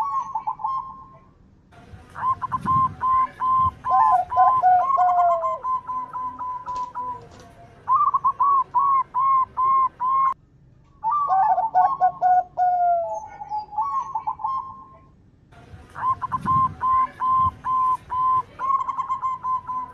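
Local zebra doves (perkutut) singing: bouts of quick, rhythmic cooing notes, some ending in lower, drawn-out 'kung' notes. The bouts are broken by short pauses.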